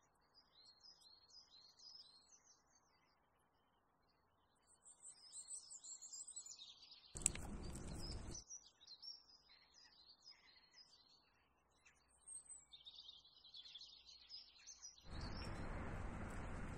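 Small birds chirping in short, repeated calls. About seven seconds in, a short burst of rushing noise starts with a click, and a steady rushing noise comes in near the end.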